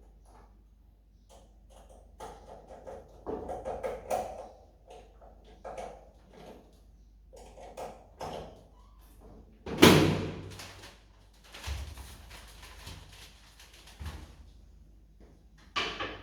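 Scattered knocks and handling clatter, with one loud bang about ten seconds in and a smaller one near the end.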